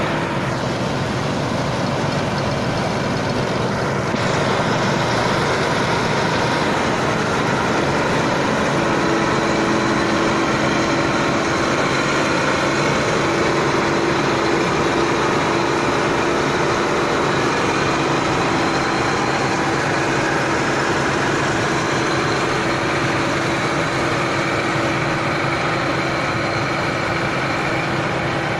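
New Holland 8060 combine harvester running steadily, its engine and machinery making a dense, even mechanical noise. A steady hum joins in about nine seconds in.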